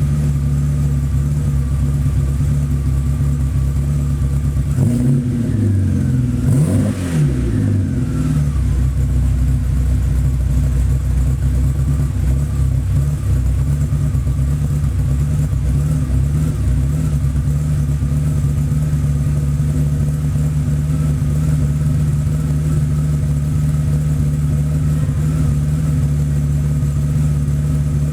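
BMW 850 (E31) V12 idling steadily while warming up after a cold start, with one brief rev about five seconds in, its pitch rising and falling back to idle within a few seconds.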